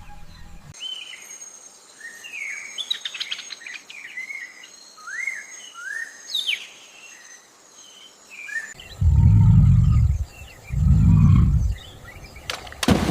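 Birds chirping and calling with short rising and falling whistled notes, then two loud, deep low rumbles of about a second each near the end.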